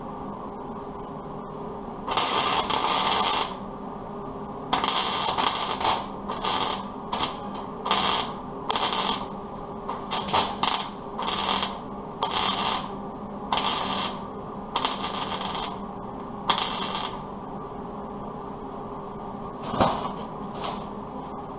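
Welder laying tack welds on sheet steel: a series of abrupt crackling bursts, the first about a second and a half long, then a dozen or so shorter ones, each stopping dead, over a steady low hum. This is a steel patch being tacked into a truck fender's wheel opening to make it smaller.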